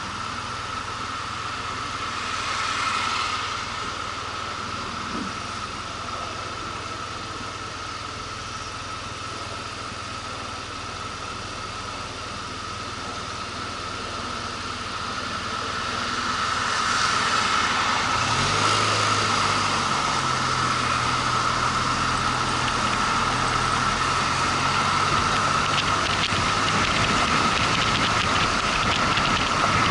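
Motorcycle running on the road, its engine mixed with road and wind noise, growing louder a little past halfway. A deeper, steady engine note joins a few seconds later and drops away shortly before the end.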